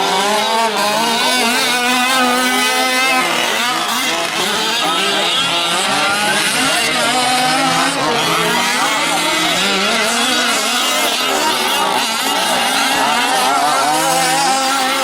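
Several 1/5-scale gas RC trucks' small two-stroke engines revving and easing off as they race, their overlapping high whines rising and falling in pitch.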